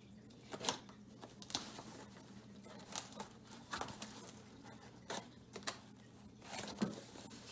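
A cardboard shipping box being opened by hand: irregular rustling, tearing and knocks of cardboard and packing, over a faint steady low hum.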